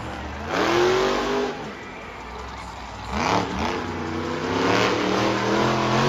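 Monster truck engine revving hard during a freestyle run. Its pitch climbs about half a second in and falls away, then rises again over the last few seconds.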